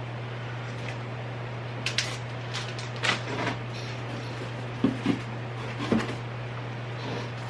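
Household items being handled and put away during unpacking: a few light knocks and rustles, like cupboard or drawer contact, over a steady low hum.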